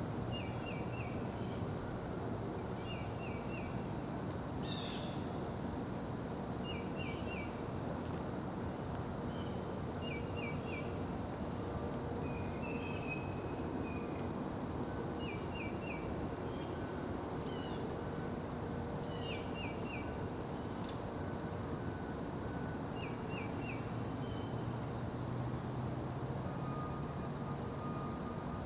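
Insects calling: a steady high-pitched trilling, and a short chirp of three or four quick pulses repeating about every two seconds, over a steady low background noise.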